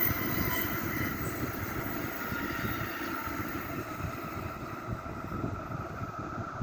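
Tōkaidō Shinkansen 700 series train running past at speed: a rushing noise with a steady whine that gradually fades as the train draws away.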